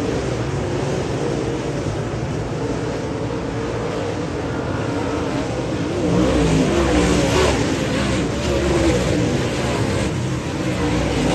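Dirt-track modified race car engine running hard on track, its pitch rising and falling as it revs. It gets louder about six seconds in.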